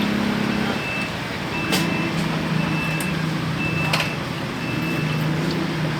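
A machine that has just been switched on runs with a steady low motor hum that drops slightly in pitch about a second and a half in. Over it a short, high electronic beep repeats roughly once a second, and there are a few sharp clicks.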